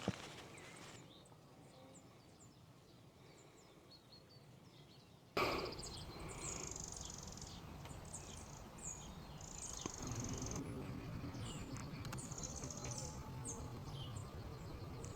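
Small songbirds chirping and twittering over a low, steady background rumble. The calls are faint for the first five seconds or so, then the whole sound steps up suddenly and busier chirping runs on.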